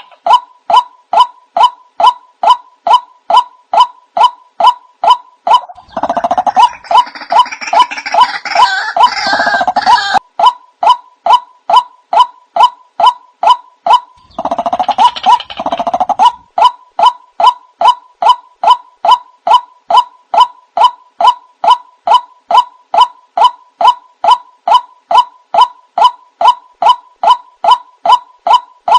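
White-breasted waterhen calls played as a lure: a steady series of short repeated notes, a little over two a second. Louder, harsher calling joins in twice, for about four seconds starting six seconds in and for under two seconds near the middle.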